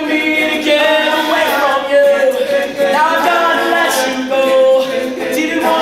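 A cappella vocal group singing in close harmony: several voices hold chords and slide between notes with no instruments.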